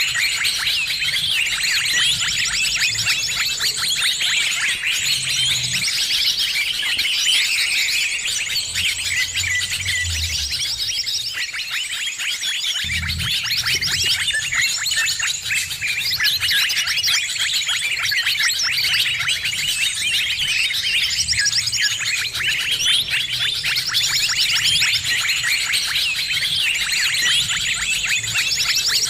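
Noisy chorus of many small birds chirping and twittering at once, a dense overlapping tangle of rapid high calls with a thin high whistle that comes and goes.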